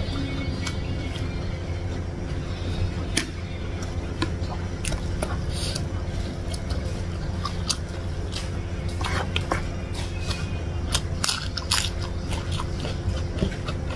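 Close-miked eating sounds: chewing a mouthful of rice and chicken eaten by hand, with many short wet mouth clicks and lip smacks. A steady low hum runs underneath.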